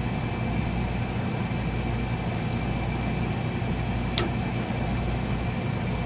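Steady low machine hum with a thin, steady high whine above it, and one light click about four seconds in.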